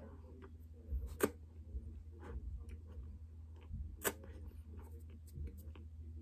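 Close-miked chewing of a mouthful of cornstarch: scattered soft clicks and crunches, with two sharper clicks about a second in and about four seconds in, over a steady low hum.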